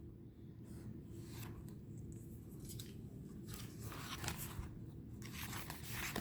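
Faint papery slides and rubs of matte tarot cards being handled and moved through the deck, a string of short scrapes with a few louder ones near the end.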